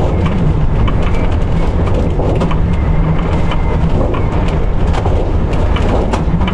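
Strong gale buffeting an electric tricycle's camper body, heard from inside: a loud, continuous low rumble with frequent rattles and knocks as the roof shakes violently.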